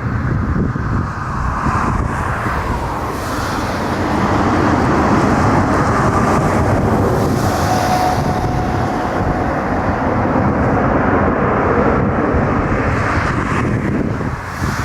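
Jet airliner engines running loud and steady, with a faint whine drifting in pitch over a low rumble and wind buffeting the microphone; the sound swells about four seconds in and holds until near the end.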